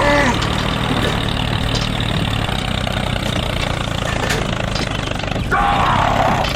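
Engine running steadily at idle, with a short pitched call right at the start and another about five and a half seconds in.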